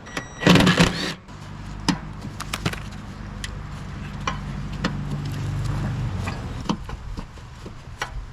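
Hand tools and metal parts knocking and clicking while rusted, seized bolts on a mower deck's tensioner bracket are worked loose: a loud rattling burst about a second in, then scattered sharp clicks and knocks.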